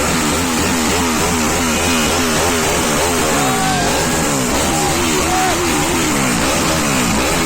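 Superbike engine revved in quick repeated blips, its pitch rising and falling about twice a second.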